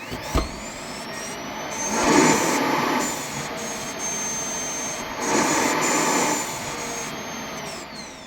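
Samsung Clean Station's suction motor emptying a Jet 75 cordless vacuum's dustbin: a high whine spins up and runs steadily with two louder rushes of air, then winds down near the end.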